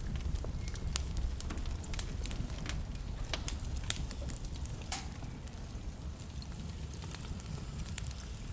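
Wood fire burning in a fireplace: a low steady rumble of flame with irregular crackles and pops from the burning logs, a sharper pop about five seconds in.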